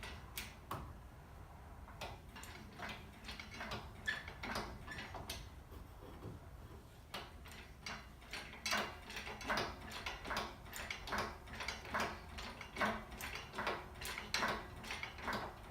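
Engine hoist being jacked up, making a string of short mechanical clicks and knocks. They come at about two a second and get louder in the second half.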